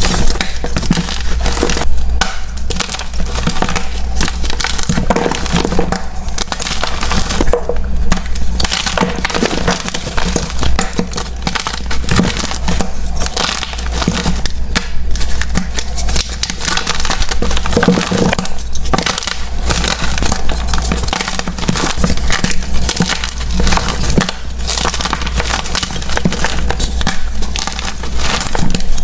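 Soft blocks of gym chalk being crushed and crumbled, a dense, continuous crackling with a light crunch, over a steady low hum.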